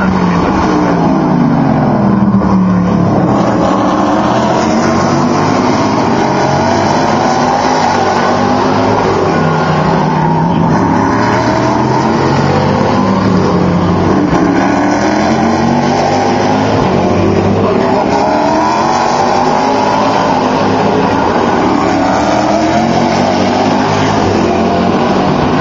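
Several race cars, a mix of sports prototypes and GT cars, taking a tight hairpin one after another: each engine note falls as the car brakes and downshifts, then rises as it accelerates away, with the cars often overlapping.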